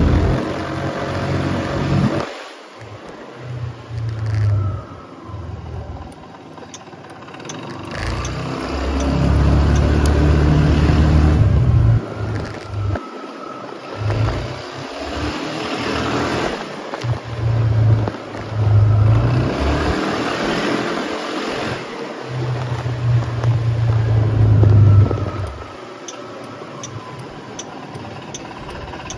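Kymco KRV 180 scooter engine on the road, repeatedly speeding up and easing off, with loud low rumbling wind noise on the microphone that comes and goes in gusts.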